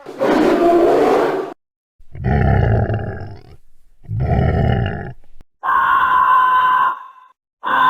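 Processed, alien-style donkey sound effects: four rough roaring grunts of about a second and a half each, separated by short gaps. The later ones carry a steady electronic-sounding tone over the grunt.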